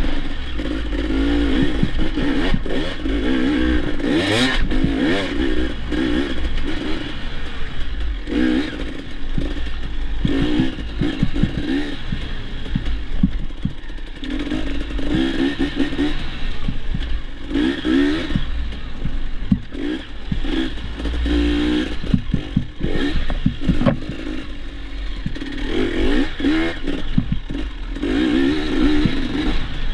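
Dirt bike engine being ridden hard, its pitch rising and falling again and again as the throttle is opened and closed, with repeated clattering knocks over rough ground.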